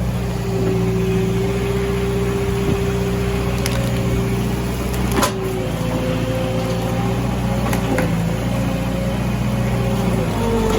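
An engine running steadily, with a higher whine that steps up in pitch about halfway through, and a few sharp knocks scattered through it.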